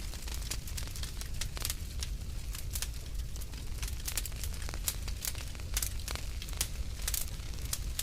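Wood fire crackling in a fireplace: irregular sharp pops and snaps over a low steady rumble of flame.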